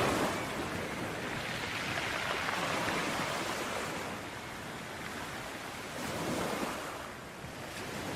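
Sea waves breaking on a beach and washing back, the surf swelling and easing every few seconds. The loudest wash comes right at the start, followed by two gentler swells.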